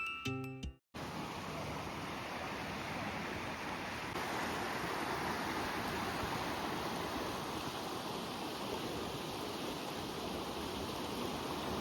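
Steady rushing sound of running water, coming in about a second in after a brief music fade-out.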